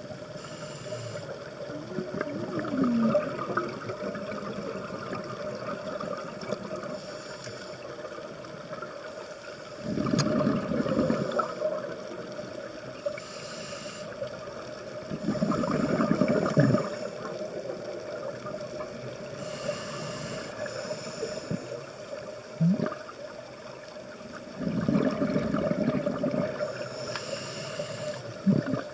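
Underwater sound of a scuba diver breathing through a regulator: exhaled bubbles rumble and gurgle in bursts of one to two seconds every several seconds, over a steady hiss and hum.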